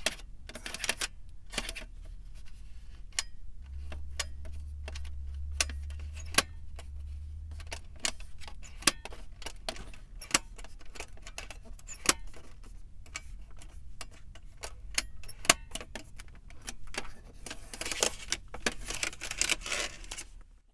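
Fingertips and nails tapping on a car's surfaces in an irregular string of sharp taps, with short spells of scratching or rubbing about half a second in and again near the end.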